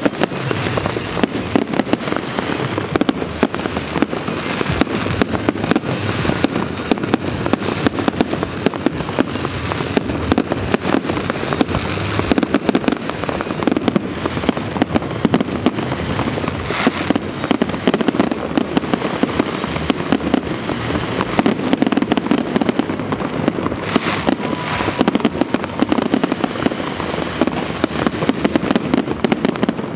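Fireworks display: many aerial shells bursting overhead in a dense, unbroken string of bangs.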